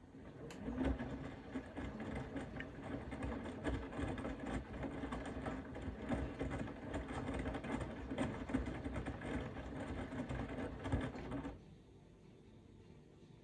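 Bosch Serie 4 front-loading washing machine drum turning during the wash phase of a cotton program: a steady motor hum with a light, uneven clatter from the laundry. It runs for about eleven seconds, then stops abruptly as the drum pauses.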